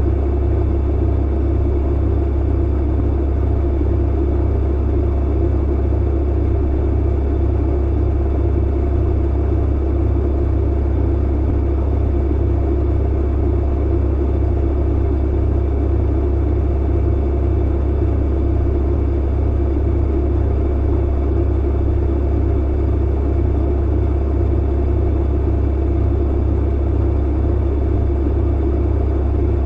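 Tumble clothes dryer running steadily: a loud, deep, unchanging hum and rumble with a layer of even noise over it.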